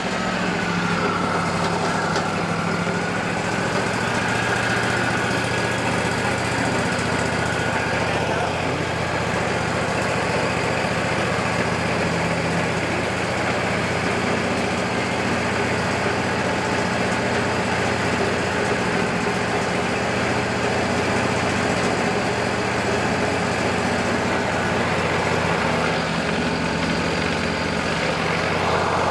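Wood-Mizer LT40 band sawmill running steadily under engine power, with a faint high whine in the first few seconds.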